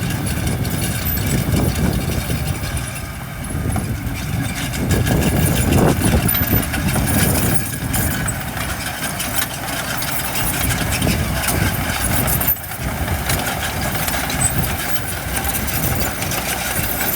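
Diesel engines of heavy construction machinery running, growing louder about five to seven seconds in.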